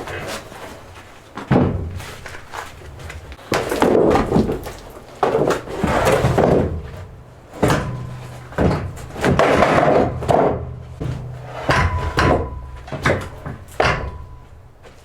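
Freshly milled wooden floorboards being handled and stacked, knocking and thudding against each other about a dozen times.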